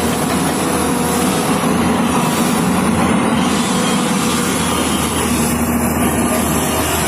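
Heavy truck's engine running steadily while driving, mixed with road and rattle noise.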